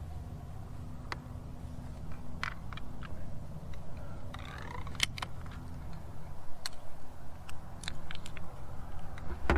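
Steady low hum with scattered sharp clicks and taps, like gear being handled between crossbow shots.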